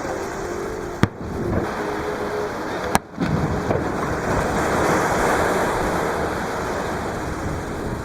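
Two sharp firework bursts about two seconds apart over the steady wash of surf breaking on the beach.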